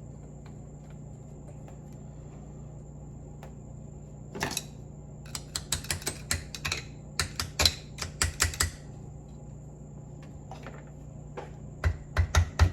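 Quick clicks and light taps of small metal parts as seals and spacers are worked into a rebuilt Ford steering box. One louder knock comes about four seconds in, then a run of rapid clicks, and near the end a regular tapping of about five strokes a second. A steady low hum underlies it.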